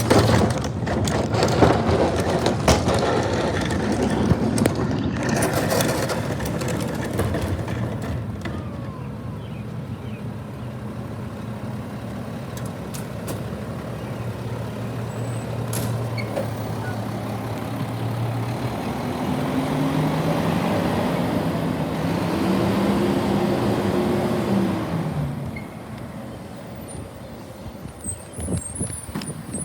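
Garbage truck working: knocks and clatter in the first few seconds over the engine's steady running, then the engine revs up with a rising pitch and drops back near the end.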